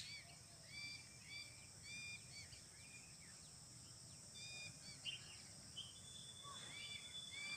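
Faint, short chirping bird calls repeating about twice a second over a quiet outdoor background, with a thin, steady high tone joining about six seconds in.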